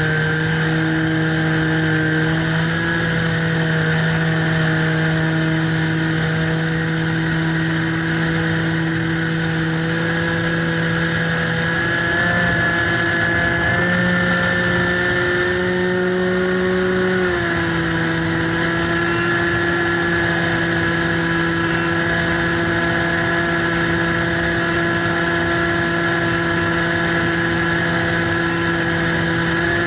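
A radio-control model plane's motor and propeller, heard from the onboard camera, running at a steady pitch. The pitch edges up in the middle and then drops a step about two-thirds of the way through, as the throttle is changed.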